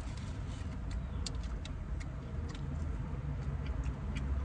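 Faint, scattered crunches and mouth clicks of two people chewing chicken sandwiches, over a steady low hum inside a car's cabin.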